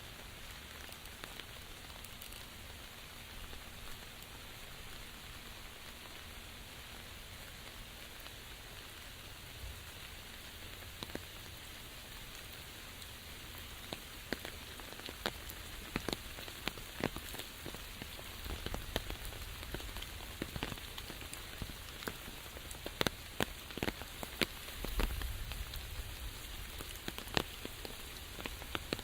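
Steady rain falling, an even hiss with sharp individual drops ticking on surfaces; the drop ticks grow more frequent and louder in the second half.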